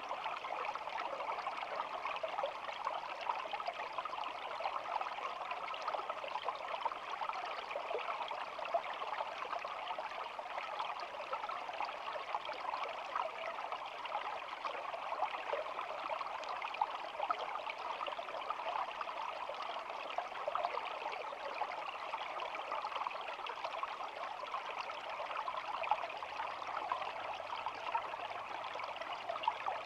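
Small shallow stream flowing and babbling, a steady rush of running water with fine trickling detail.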